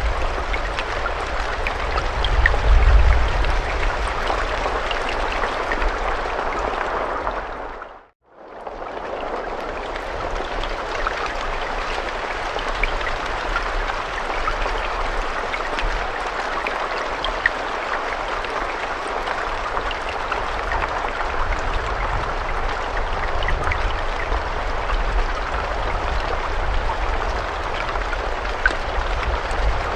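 Steady rain falling, with scattered individual drops ticking through it. About eight seconds in, the sound briefly fades out to silence and comes straight back.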